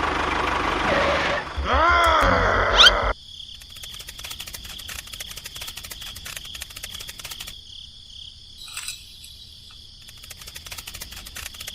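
A small motor running with a low knocking pulse, a sliding voice-like cry over it, cut off suddenly about three seconds in. After that, faint, fast insect-like chirring with a steady high tone.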